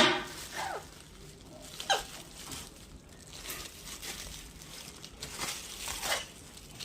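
Pet parrot playing with plastic wrapping: soft crinkling and rustling, with a few short squawks that glide down in pitch, the loudest right at the start.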